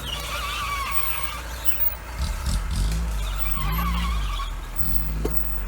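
Off-road vehicle engine running with a steady low rumble that swells and eases, with a wavering high squeal twice: at the start and again about four seconds in. A short click comes near the end.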